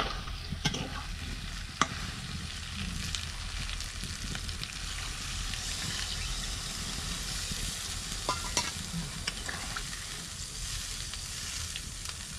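Food sizzling and frying in a pan while being stirred, a steady hiss broken by a few sharp clicks.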